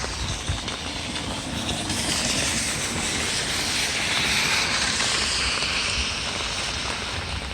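Steady hiss of heavy rain with storm water rushing from a drain outlet, swelling louder from about two seconds in and easing off near the end.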